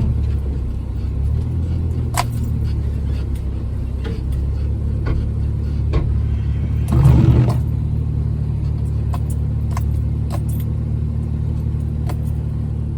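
Jeep Wrangler driving slowly over a snowy off-road trail: the engine gives a steady low drone, with scattered knocks and clicks and a brief rise in engine sound about seven seconds in.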